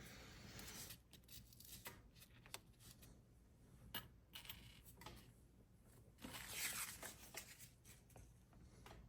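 Faint, scattered clicks of small parts being handled on a workbench during a tidy-up, with a brief rustle about six seconds in.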